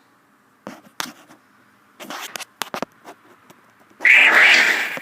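Several light clicks from an iPhone 6s home button being tapped, then about four seconds in a loud, sustained noise from the phone, the unexplained sound it makes whenever the home button is tapped.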